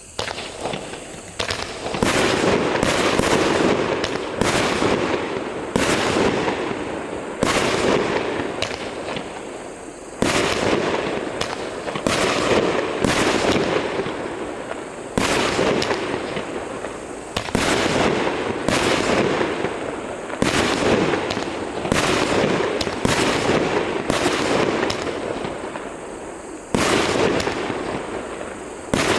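A 25-shot consumer fireworks cake with 25 mm tubes firing shot after shot, roughly one every one to two seconds. Each shot is a sharp bang whose noise fades away over a second or so before the next.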